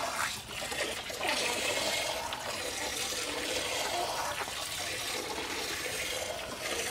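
Milk squirting from a cow's teats into an aluminium pot as the cow is milked by hand: a steady liquid hiss of the streams hitting the milk in the pot.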